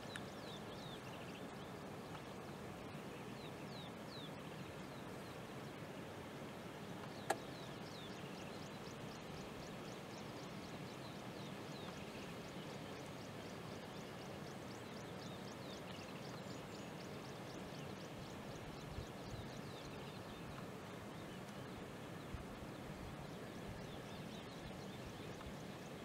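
Quiet outdoor ambience: a steady hiss with small birds calling in high, short falling notes, including a long, fast, even run of them through the middle. A single sharp click sounds about seven seconds in.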